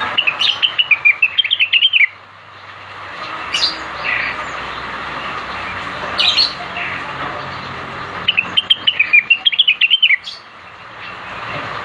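Cucak wilis, a leafbird, singing: two quick chattering phrases of rapid notes that drop in pitch at the end, with short single calls between them, over a steady background hiss.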